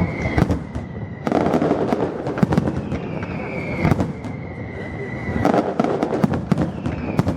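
Fireworks display: dense crackling and many sharp bangs, with a whistling tone that slides down in pitch three times.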